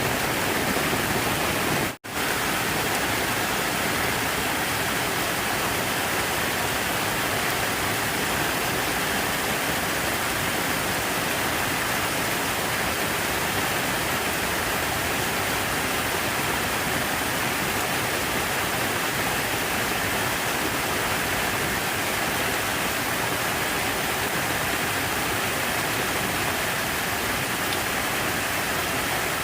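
Falling water splashing steadily, a constant rushing hiss that breaks off for an instant about two seconds in.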